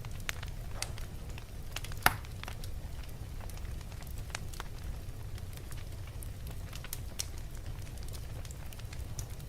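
Wood fire burning in a fireplace: a steady low rumble of flames with irregular crackles and snaps, one sharp pop about two seconds in.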